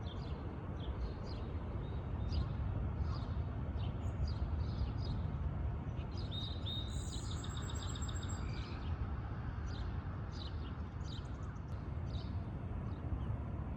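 Small birds chirping in short scattered calls, with one longer, held call about six seconds in, over a steady low rumble of outdoor background noise.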